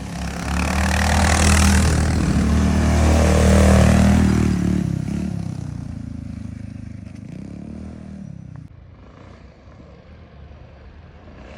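An off-road motorbike engine passing close by. It grows louder to a peak about four seconds in, then fades away into the distance.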